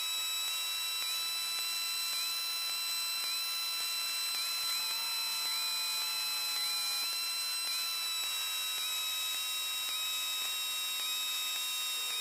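Steady electrical hiss with several thin high-pitched whine tones on the aircraft's radio and intercom audio line between transmissions. One of the tones wavers briefly about once a second. There is no engine rumble in it.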